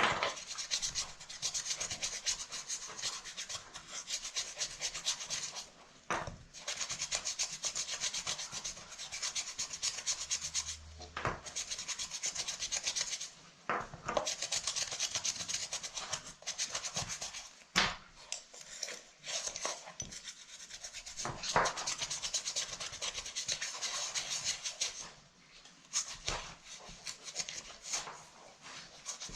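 A stiff brush scrubbing the surface of a muddy handbag in quick back-and-forth strokes, in bouts of several seconds with short pauses, with an occasional sharp tap or knock between bouts.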